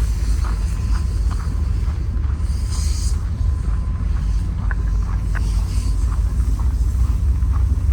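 Steady low rumble of a stopped diesel passenger train idling, with short footsteps about twice a second on top.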